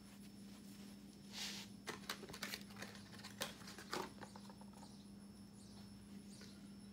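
Faint handling noises while the oil filter mounting area is wiped clean: a brief rustle about a second and a half in, then a scatter of small clicks and knocks over about two seconds, over a low steady hum.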